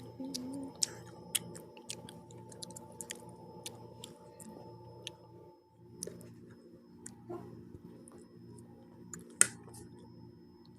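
Close-miked chewing of pizza: scattered sharp wet mouth clicks and small crunches, with one louder click near the end.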